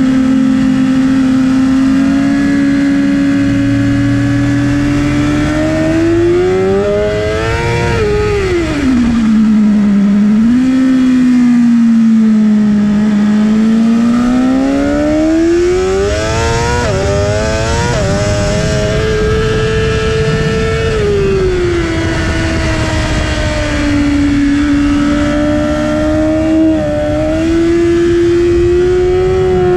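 2019 BMW S 1000 RR M Package's 999 cc inline-four engine heard onboard at track speed, with wind rush. The engine note holds steady, climbs, drops sharply about eight seconds in, climbs again with a couple of brief dips, then falls and settles.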